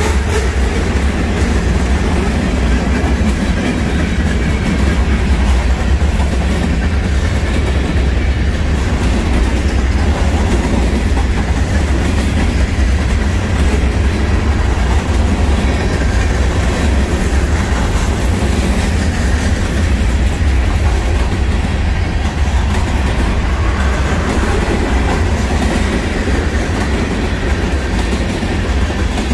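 Norfolk Southern freight train rolling past, its cars making a steady, deep rumble on the track.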